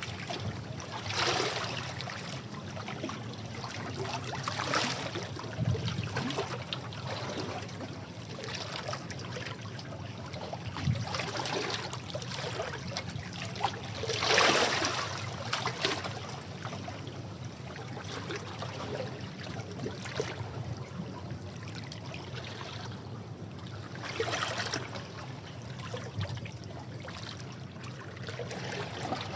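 Sea waves washing over rocks: a steady rush of water that swells into louder surges every few seconds, the strongest about halfway through.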